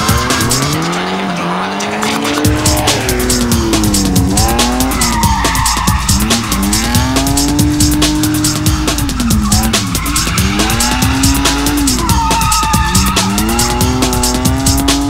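A drift car's engine revving hard, rising and falling in pitch through several corners, with the tyres squealing as it slides, loudest twice.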